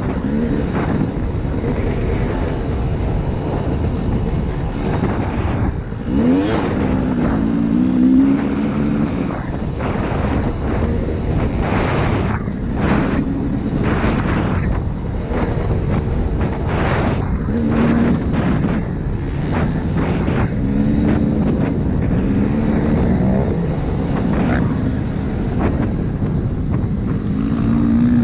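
A 2012 KTM 250 SX two-stroke dirt bike engine running hard and revving up and down, its pitch climbing again and again as it pulls out of turns and through the gears. Many short sharp bursts of noise cut across it throughout.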